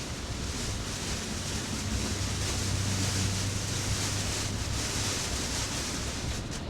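Heavy rain and wet tyre noise heard from inside a moving Tesla's cabin: a steady hiss of rain on the car and tyres on a wet grooved concrete road, with a low drone underneath.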